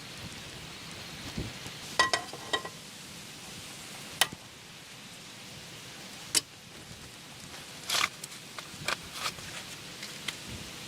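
A steady hiss like rain, with scattered sharp knocks and clicks over it; a few clinks about two seconds in ring briefly, like metal or hard objects handled.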